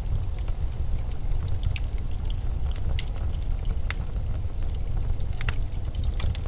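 Blizzard wind blowing in a steady deep rumble, with scattered sharp ticks and crackles over it, a few bunched together near the end.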